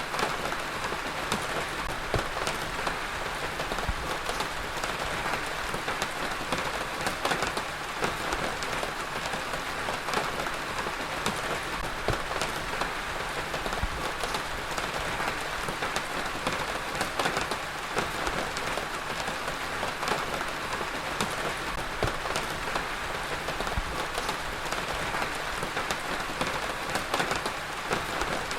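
Heavy rain falling steadily, a dense even hiss with many individual drops ticking on a hard surface.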